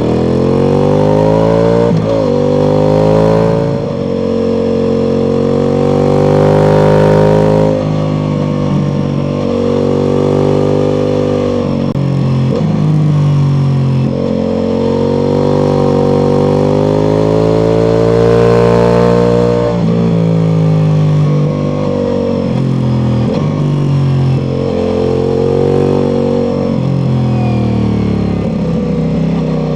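Ducati Multistrada V4 Pikes Peak's V4 engine through an Akrapovič exhaust, under way on the road. It accelerates and eases off in turn, its pitch climbing and falling, with several sharp drops in pitch at gear changes.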